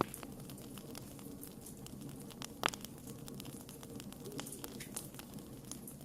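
Wood campfire crackling: a steady run of small snaps and pops over the low rumble of the flames, with one louder pop about two and a half seconds in.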